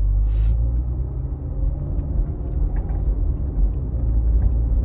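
Low, steady rumble of a car on the move, with a brief hiss just after the start.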